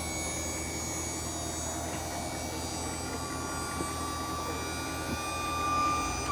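2008 GMC Sierra 2500 pickup's V8 engine idling steadily, with a held whine and a slight swell in loudness near the end.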